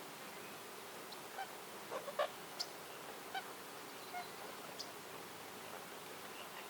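Birds calling in a forest: a scatter of short calls over a steady background hiss. The loudest is a quick cluster about two seconds in, with a couple of thin high chirps after it.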